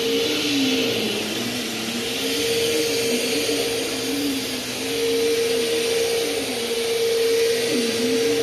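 Bissell CleanView Helix upright vacuum cleaner running: a steady motor whine with a lower tone that wavers up and down as it works.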